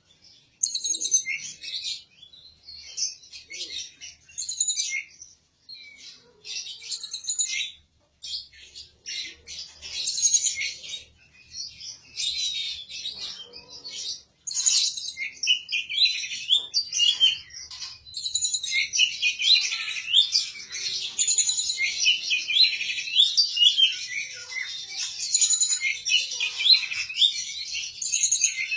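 A pet songbird singing in rapid, high chirps and trills. Short bursts with pauses at first, then nearly unbroken song from about halfway through.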